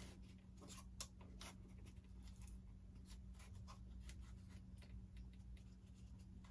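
Faint handling noises: light scratching and scattered small clicks as wiring is worked through the foam airframe by hand, over a steady low hum.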